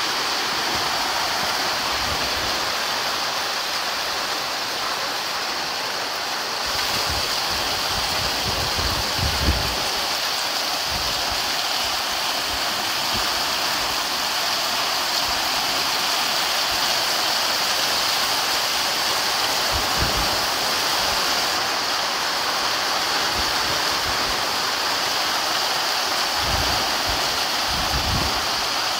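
Heavy rain pouring steadily, a dense even hiss, with a few brief low thumps now and then, the strongest about nine seconds in.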